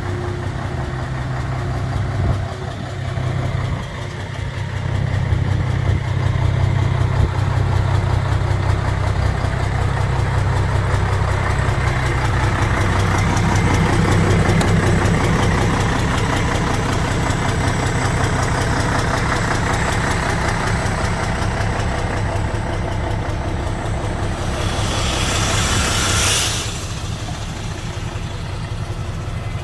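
Mercedes-Benz SK 1831 truck's diesel engine running with a steady low drone, a little fuller from about halfway. Near the end, a hiss lasts a couple of seconds over it and stops abruptly.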